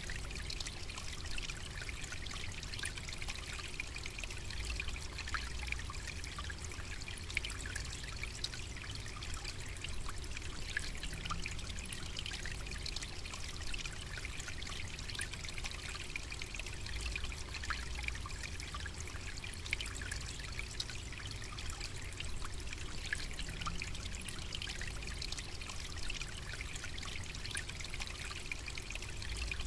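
Steady trickling water with a dense patter of tiny ticks and a low rumble underneath, unchanging throughout.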